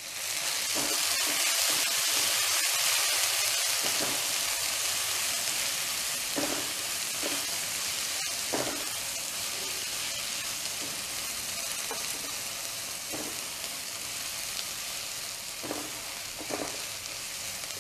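Chopped shallots sizzling in hot peanut oil with minced ginger and garlic in a wok, stirred with a silicone spatula. The sizzle is loudest just after the shallots go in and slowly dies down, with a few light scrapes of the spatula.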